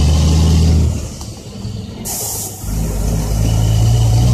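Loaded dump truck's Caterpillar C10 inline-six diesel running under load. The engine note drops off about a second in, a short hiss of air follows about two seconds in, and the engine then pulls again.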